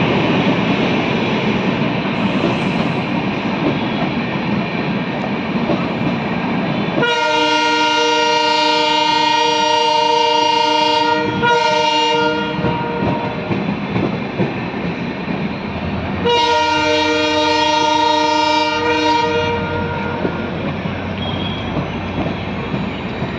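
A train running with a steady rumble and wheel clatter. About seven seconds in, its horn sounds a long blast of about four seconds with a short toot after it. A second long blast of about three seconds follows near the middle, again ending with a short toot.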